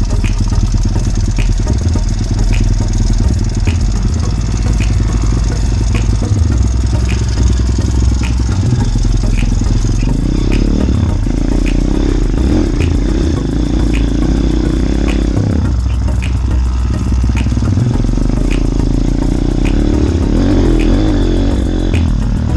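Small motorbike engine running under a steady low rumble while riding over rough ground, with some clatter. From about ten seconds in the engine note rises and falls as it is throttled on and off, and a light tick repeats about once a second.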